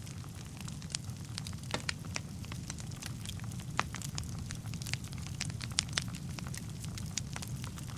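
Wood fire burning in a fireplace: a steady low rumble of the flames with irregular sharp crackles and pops of the burning logs, several a second.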